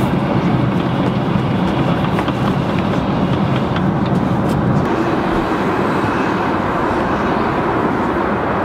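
Steady airliner cabin noise in cruise flight: a constant rumble of engines and rushing air, with a few faint clicks. The low rumble eases slightly about five seconds in.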